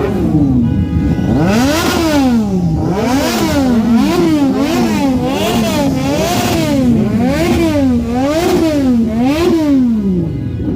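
Motorcycle engine revved up and down over and over, its pitch rising and falling in a regular zigzag about once a second, then settling near the end.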